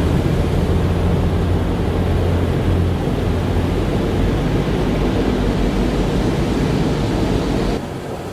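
Car wash machinery running: a steady rush of spraying water and motor noise under a low hum. Near the end the hum drops away suddenly and the sound gets quieter.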